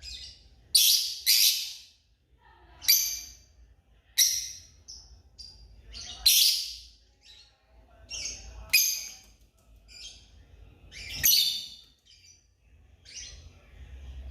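African lovebirds calling: about ten short, shrill chirps at irregular intervals, each a sharp high-pitched burst.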